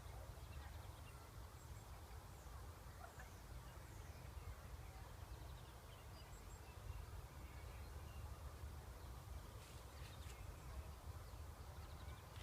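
Faint outdoor ambience: a steady low rumble with a few faint, high bird chirps, and a few soft clicks about ten seconds in.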